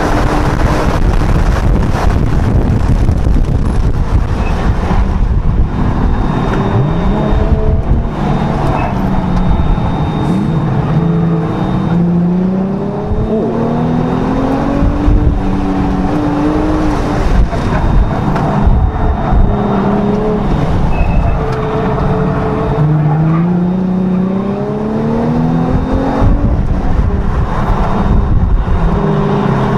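Honda NSX V6 engine heard from inside the cabin, driven hard on a circuit: its pitch climbs under acceleration for several seconds and falls back between climbs, several times, over steady road and tyre noise.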